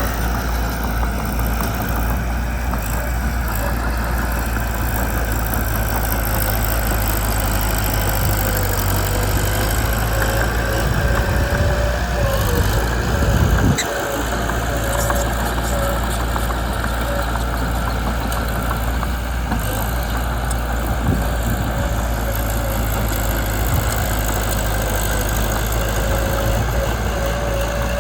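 Mitsubishi BD2 bulldozer's diesel engine running steadily, with a thin, steady whine above the engine note. The engine rises briefly just before halfway, then drops back abruptly.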